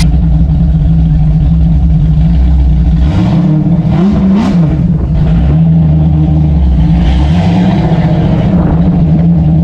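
Classic Ford Mustang small-block V8 idling loudly. It is revved up and back down from about three to five seconds in, and revved again briefly around seven seconds.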